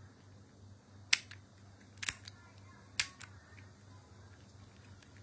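Three sharp clicks about a second apart from hands handling toy packaging, over a faint low hum.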